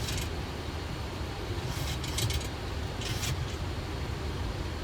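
Boeing 737 flight-deck noise during descent: a steady low rumble of airflow and engines under an even hiss, with a few brief hissing sounds about two and three seconds in.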